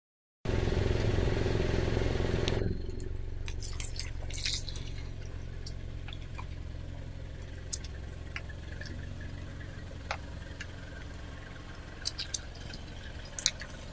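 Car engine running at idle, a steady low rumble that is louder for the first two seconds or so, with scattered small clicks and drips of wet crushed tomato pulp at the tyre.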